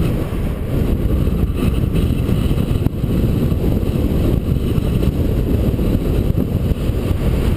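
Wind rushing over a GoPro microphone on a moving bicycle: a steady, loud low rumble that doesn't let up.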